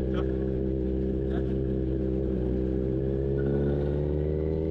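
Kawasaki Z900's inline-four engine running steadily at low road speed, its pitch rising gently over the last couple of seconds.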